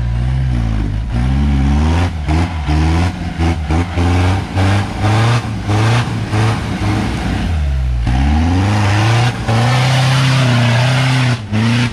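Off-road 4x4's engine revving up and down in short bursts with abrupt breaks, then climbing and holding high revs for a few seconds near the end.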